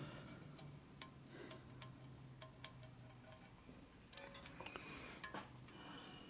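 Scattered sharp metallic clicks and clinks, about half a dozen of them, as metal parts and tools are handled in a machine shop. A faint steady low hum runs underneath.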